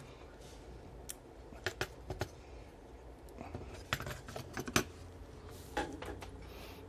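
Small clicks, taps and light rattles of hard parts being handled as the display is fitted back onto a small electronics kit board, about a dozen irregular clicks with the busiest cluster around the middle.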